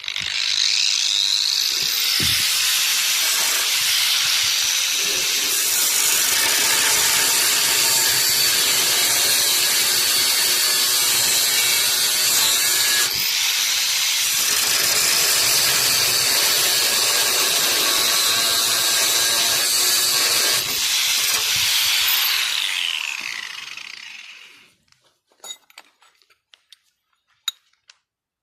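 Angle grinder spinning up and grinding steel, a loud steady whine with rasping noise that pauses briefly about halfway through. It then winds down with a falling whine after about 23 seconds.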